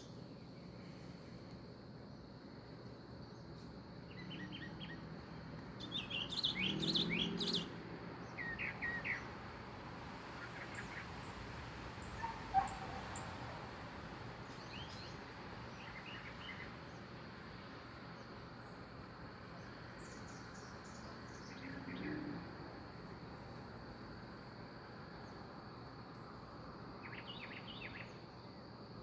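Small birds chirping in short scattered bursts, loudest a few seconds in, over a steady high insect drone and a low background hiss.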